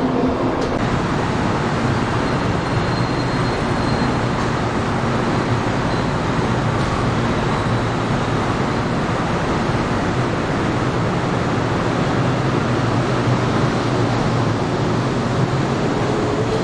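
Electric multiple-unit commuter train running alongside a station platform: a steady rumble of wheels and traction motors with a low hum.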